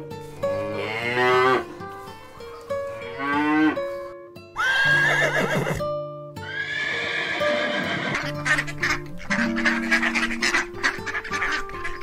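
Background music with a series of animal calls laid over it: short bending calls early on, then long high quavering calls in the middle like a horse neighing, and a run of rapid pulsed calls near the end.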